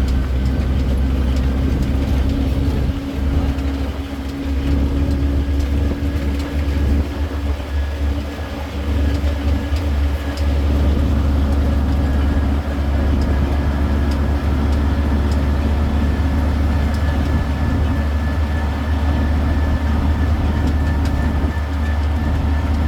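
City tour road train running: a steady low engine drone and the rumble of the rolling wagons, with a faint high whine throughout.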